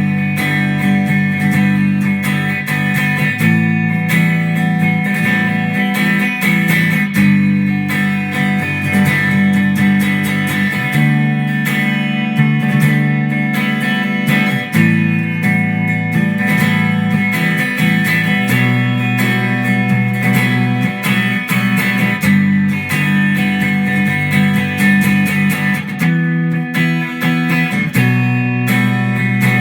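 Guitar being strummed and picked, ringing chords that change every few seconds.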